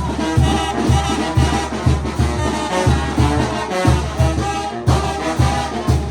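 Brass band music: horns play a melody over a steady low beat about twice a second.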